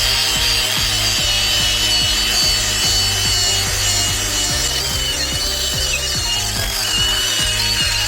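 Cordless 18V disc grinder polishing a stainless steel muffler, running at steady speed with a high whine and a rubbing sound from the pad on the metal.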